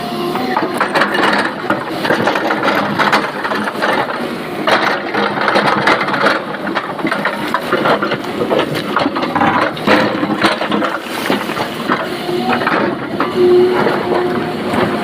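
Excavator working with its engine running under a dense, continuous clatter of knocks and rattles.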